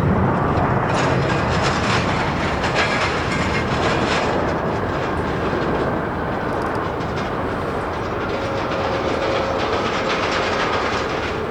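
Landing jet airliner: a loud, steady engine roar with a faint whine, easing off slightly after about six seconds.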